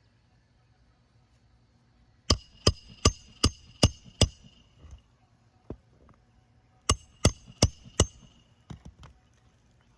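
Hammer blows driving roofing nails: six quick strikes, a pause, then four more, each with a short metallic ring, followed by a few lighter taps near the end.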